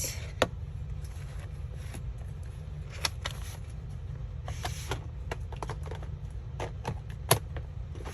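Paper and craft supplies being handled on a table: scattered light taps and clicks, with a sharper tap about half a second in and another near the end, and a short rustle of paper midway, over a steady low hum.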